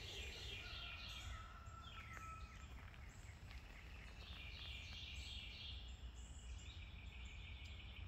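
Faint birdsong: runs of quick high chirps near the start and again past the middle, with one thin held whistle, over a steady low rumble.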